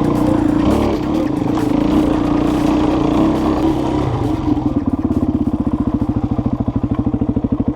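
Enduro motorcycle engine running, then dropping to an even, pulsing idle about four and a half seconds in.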